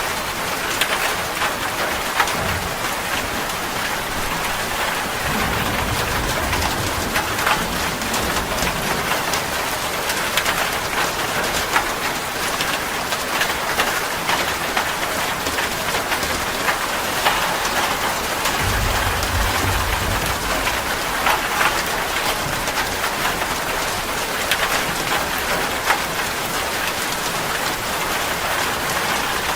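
Steady rain, with individual drops ticking on a surface through an even hiss. Two low rumbles swell and fade, one about five seconds in and one about nineteen seconds in.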